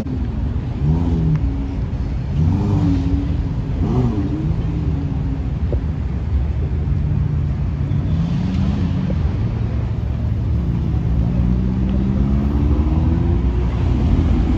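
Car engines revving: short blips that rise and fall in pitch in the first few seconds, then a longer, steady climb in pitch near the end as an engine is held and wound up, over a constant low engine rumble.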